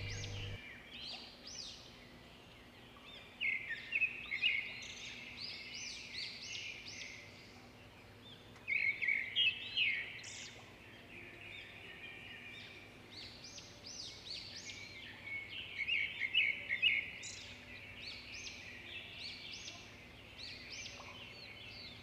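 Small birds chirping and twittering in quick bursts of rapid high calls, with quieter stretches between the bursts. A low hum cuts off about half a second in.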